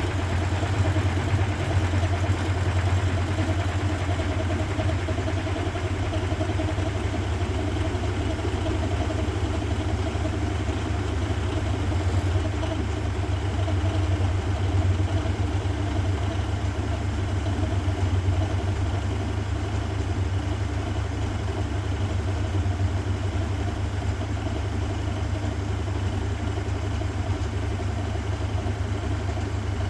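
1969 Zanker VA520 washing machine running, with a steady low hum and a fast, even mechanical pulsing.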